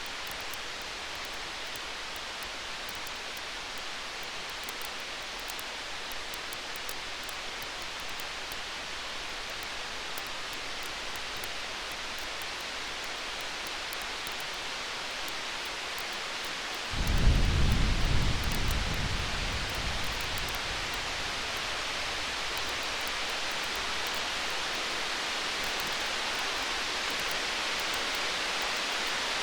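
A steady hiss with faint crackling of a campfire. About 17 seconds in, a low rumble of distant thunder sets in suddenly and fades away over a few seconds.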